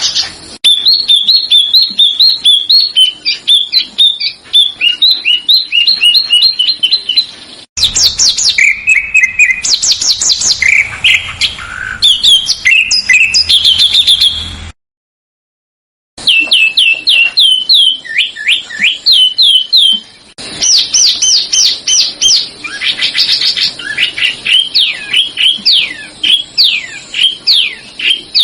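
Small songbirds singing fast, tightly repeated high chirps and trills. Several recordings are spliced together, changing abruptly twice, with a short silent gap about halfway.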